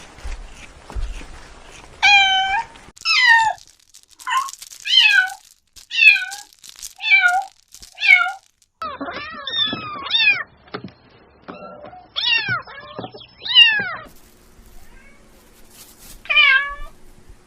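Kittens meowing: a run of high-pitched meows about once a second, then several kittens calling over one another, with one more meow near the end.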